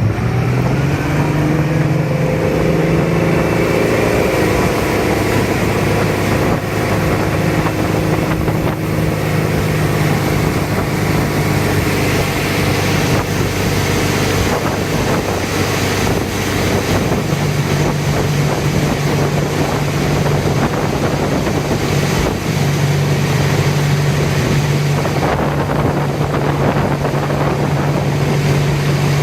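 Wakeboard tow boat's engine picking up speed in the first couple of seconds, then running steadily at towing speed, with wind buffeting the microphone.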